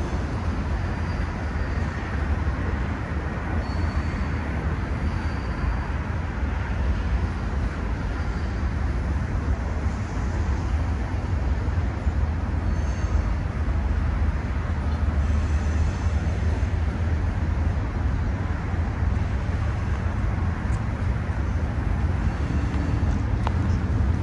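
Train cars rolling steadily across a railroad bridge: a continuous low rumble of wheels on rails, with a few brief faint high squeals now and then.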